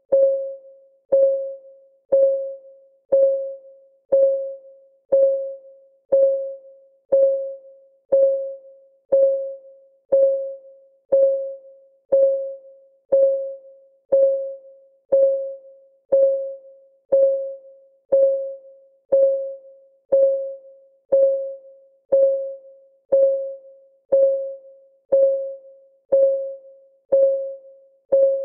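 Clock ticking sound of a countdown timer: one even, pitched tick every second, each a sharp click with a short ringing tone that fades quickly.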